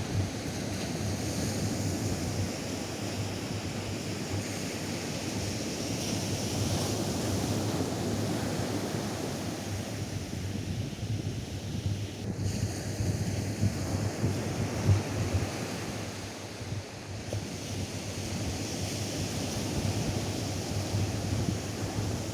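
Atlantic surf washing onto a sandy beach, a steady wash of waves, with wind buffeting the microphone.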